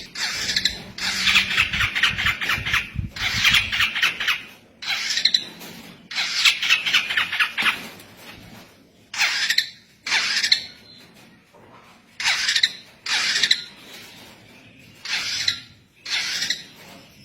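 Long-tailed shrike (cendet) singing in harsh, rapid chattering phrases, long runs at first, then short bursts about once a second with brief pauses between.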